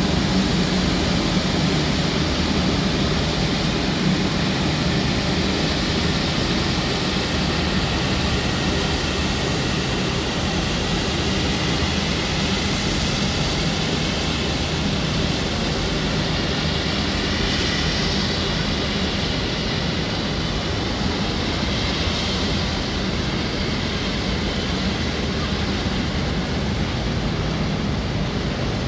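Jet airliner engines running steadily, a constant rush with a low hum underneath, and faint whines that shift in pitch about halfway through.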